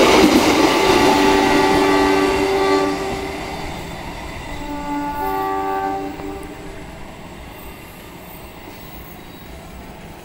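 A passenger train's coaches rush past with wheel and track noise that fades over the first three seconds as the train draws away. The locomotive's horn sounds two long blasts, about a second in and again near five seconds, while the train recedes down the line.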